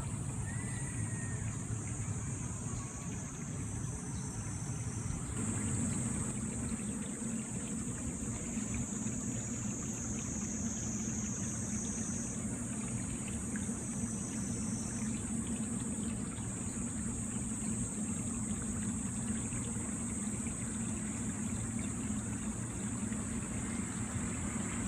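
Steady low rumble of a train at a rail depot, growing a little louder about five seconds in, with a steady high hiss over it.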